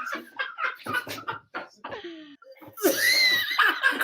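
Laughter in short rhythmic bursts, rising near the end into a loud, high-pitched squeal of laughter.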